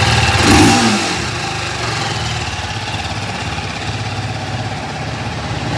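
TVS Apache RTR 310's single-cylinder engine idling, with a short rise in revs about half a second in before it settles back to a steady idle.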